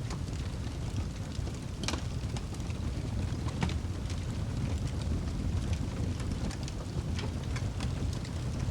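Wood fire burning in a fireplace: a steady low rumble of flames with sharp crackles and pops every second or two, the loudest about two seconds in and again about three and a half seconds in.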